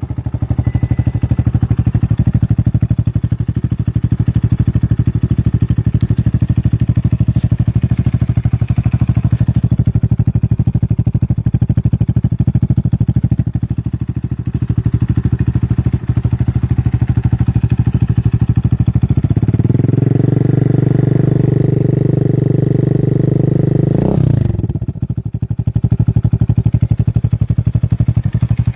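Grom-clone mini motorcycle's single-cylinder engine running on a new aftermarket exhaust with a Nibbi carburettor and the air box removed, idling steadily. About two-thirds of the way in it is revved up and held at a higher, louder note for about five seconds, then drops back to idle.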